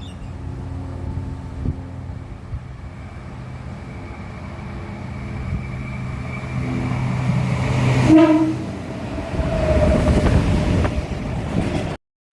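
Train approaching with a steady engine hum that grows louder, a brief horn sound about eight seconds in, then the loud rumble of the train passing close by; the sound cuts off suddenly near the end.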